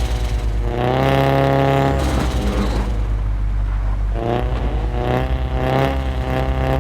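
Straight-piped Volkswagen Golf 7 exhaust, the engine revved up about a second in, dropping back to a rough idle, then blipped several times in the second half.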